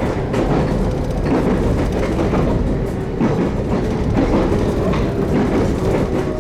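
JR Kyushu 813 series electric train running on the rails, heard from inside the car: a steady rumble of wheels on track with occasional clacks over rail joints.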